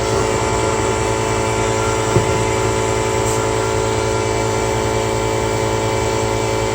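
Variable-speed geothermal heat pump running: the compressor and blower give a steady hum made of several steady tones, with one small knock about two seconds in.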